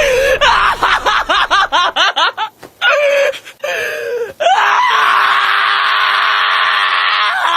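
Loud, rasping screaming voice: quick repeated rising-and-falling cries, then two longer cries, then one long held scream that cuts off near the end.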